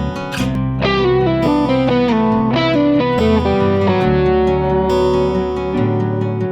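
Overdriven electric guitar lead played on a neck pickup, running quickly down through a series of notes and then holding a long note. It sounds over a backing of a steel-string acoustic guitar arpeggio and an electric bass line.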